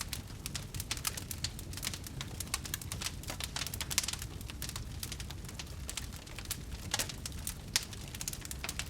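Wood fire crackling: a dense run of sharp pops and snaps over a low steady rumble, with a louder pop about four seconds in and two more toward the end.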